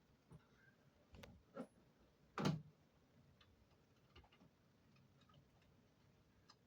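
A few scattered knocks and clicks from handling during a window air conditioner installation, the loudest about two and a half seconds in, with fainter ticks later, against near silence.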